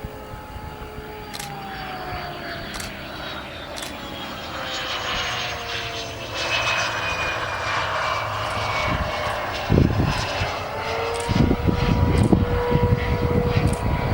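Twin turbofan jet engines of a Cessna 525 Citation CJ1 business jet going by: the engine whine falls in pitch over the first few seconds as the noise grows, then a heavy low rumble sets in about ten seconds in, with a steady whine near the end.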